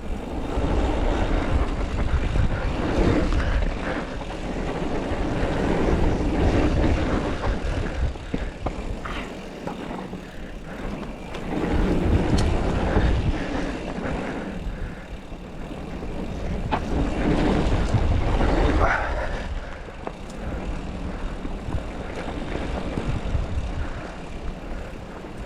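Mountain bike on a downhill dirt trail: wind buffeting the camera microphone and tyres rolling over the ground, swelling and easing every few seconds, with a few sharp knocks and rattles from the bike.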